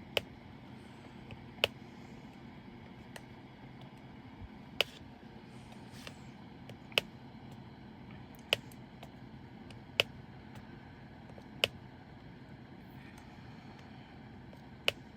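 Diamond painting drill pen tapping resin drills onto the sticky canvas: sharp, short clicks, eight or so, every second and a half to three seconds, over a steady low hum.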